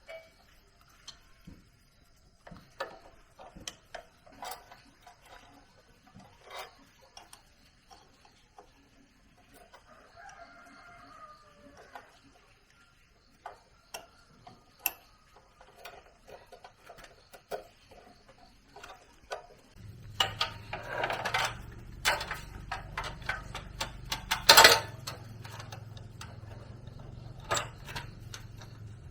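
A rooster crows once, with scattered sharp clicks and knocks around it. About two-thirds through, a steady low hum starts and the clicking turns louder and denser for a few seconds.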